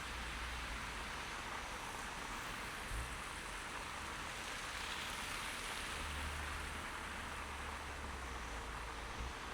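Traffic noise on a snow-covered city street: a steady hiss of tyres on wet road, with a low vehicle rumble that fades and returns about six seconds in. There is a short thump about three seconds in and another near the end.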